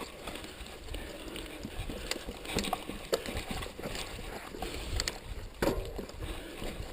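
Mountain bike ridden over a rough dirt trail: a steady noise of tyres on the ground with irregular clatters and knocks from the bike, loudest a little after halfway.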